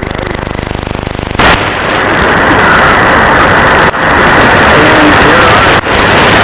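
Shortwave receiver audio: loud hiss of static with a weak broadcast voice barely showing through. For about the first second and a half it drops to a quieter, rapid buzz of impulse interference, the kind that comes from unfiltered switching power supplies on the mains, before the full static returns. There are brief dropouts near four and six seconds in.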